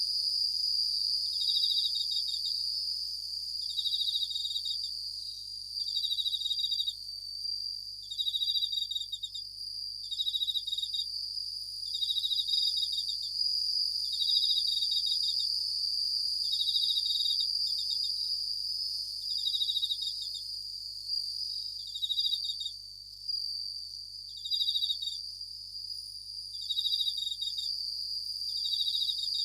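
Japanese bell crickets (suzumushi) singing: short pulsed ringing bursts repeat about every two seconds over a steady high continuous trill.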